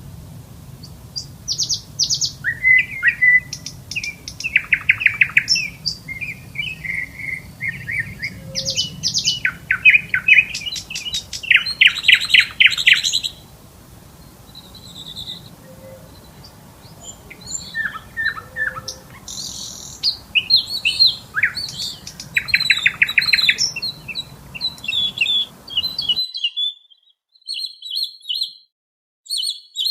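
Small birds chirping and calling, a busy mix of short whistled notes and fast rattling trills. A low background hum drops out abruptly about 26 seconds in, while the calls carry on.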